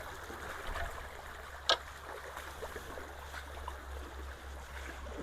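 Shallow ditch water running and trickling steadily, with one sharp click just under two seconds in.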